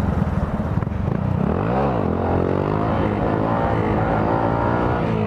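Honda Grom motorcycle's small single-cylinder engine running under way. Its pitch rises and dips quickly about a second and a half in, then climbs steadily as it accelerates.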